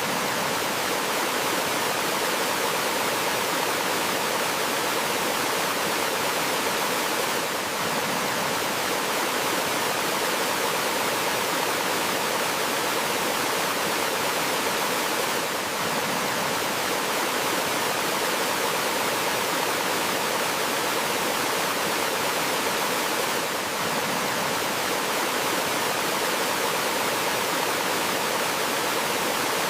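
Steady rush of flowing water from a forest stream over rocks, even and unbroken, dipping slightly in loudness about every eight seconds.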